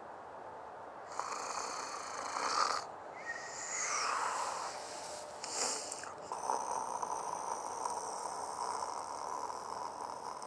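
A sleeping man snoring, in rough breaths a second or two long, with a steadier stretch in the second half.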